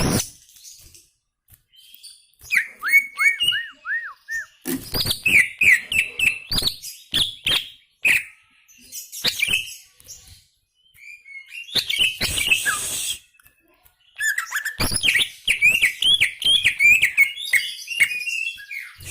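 Cucak ijo (leafbird) in full song: bursts of rapid, repeated sweeping whistled notes with sharp clicks, broken by short pauses.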